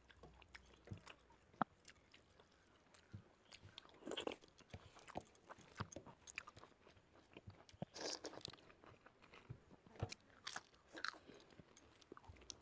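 Faint eating sounds: chewing with small mouth clicks, and a few short crunchy bites about four, eight and ten seconds in.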